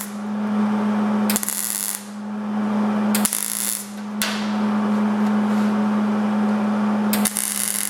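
Welder putting short tack welds into a sheet-metal truck door panel: four brief bursts of arc crackle, each under a second, with a steady hum throughout.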